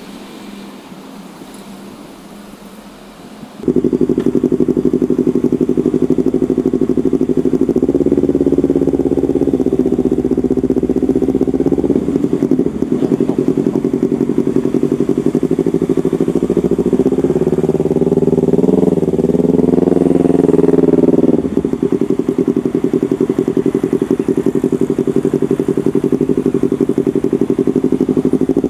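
Yamaha MT-25 parallel-twin motorcycle engine through a custom aftermarket exhaust, coming in abruptly after a few quieter seconds and running at a steady idle. About two-thirds through it is revved, the pitch rising and wavering, then drops back to idle.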